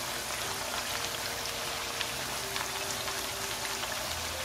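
Corn tortillas frying in hot oil in a cast-iron skillet: a steady sizzle with fine crackling as the moisture bubbles out of the tortillas while they crisp into tostadas.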